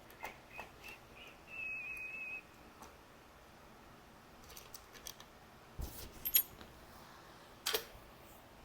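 Scattered light clicks and metal taps of tools and bike parts being handled during an e-bike fork swap, with a short high whistling squeak about two seconds in and a sharper metallic tick later on.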